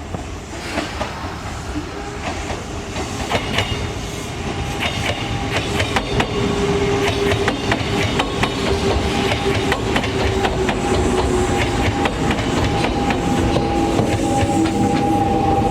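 Kintetsu Minami-Osaka Line electric train running close by, its wheels clicking over the rail joints and growing louder through the first half. A steady whine joins in about five seconds in.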